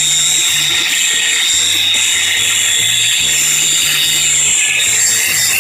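Angle grinder running steadily with a high whine and an even hiss. Background music with changing bass notes plays underneath.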